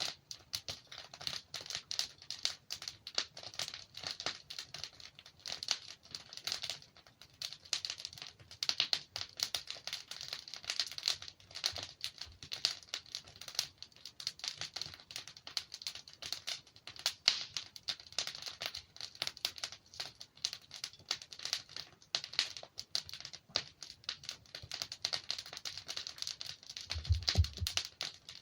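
Logs burning in a fireplace, crackling and popping in dense, irregular small clicks, with a brief low thud near the end.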